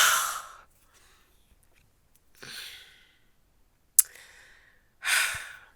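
A woman breathing out in heavy, breathy sighs, four short exhales a second or so apart, the first the loudest, with a sharp click just before the third.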